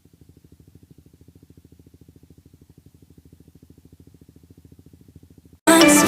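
An engine running with a fast, even pulse, faint and low-pitched. About five and a half seconds in, loud pop music cuts in over it.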